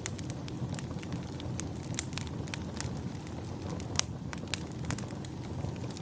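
Wood fire crackling, with many irregular sharp pops over a low steady rumble; the loudest pop comes about four seconds in.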